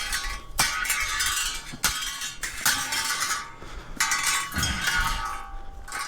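Pieces of scrap steel clanking and clinking against each other as they are handled and loaded, several separate ringing metal impacts a second or so apart.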